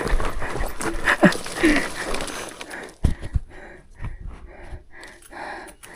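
A person breathing hard and panting in short, regular breaths, with a couple of brief grunts about a second in.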